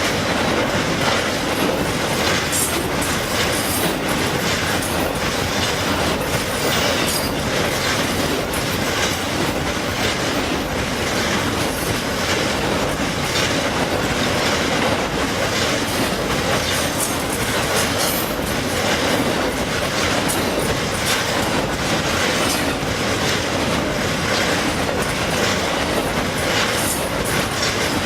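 Railroad cars rolling past at steady speed, a continuous rumble of wheels on rail with frequent sharp clicks as the wheels cross rail joints.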